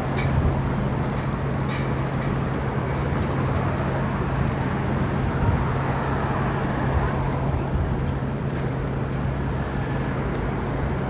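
City street traffic noise: a steady wash of passing vehicles with a constant low engine hum underneath.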